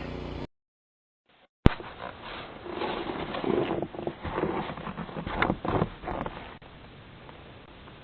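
Irregular crunching and scuffing in deep snow, after a second of dead silence and a sharp click where the recording cuts in.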